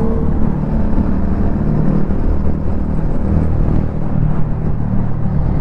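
Motorcycle engine running in traffic, heard as a steady low rumble with road and wind noise on the rider's microphone.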